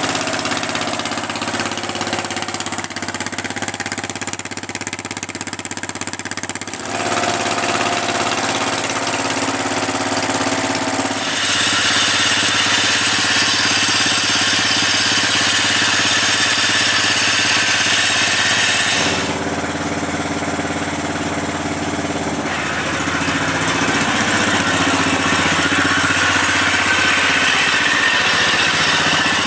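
Lifted riding lawn mower's engine running through its new exhaust, its speed stepping up and down with the throttle: it rises twice, drops back, then climbs again near the end.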